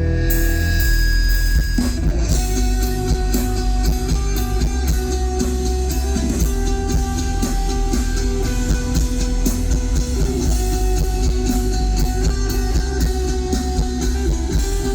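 Live rock band playing an instrumental passage with no vocals: electric guitars over bass, with the drum kit coming in about two seconds in and keeping a steady beat.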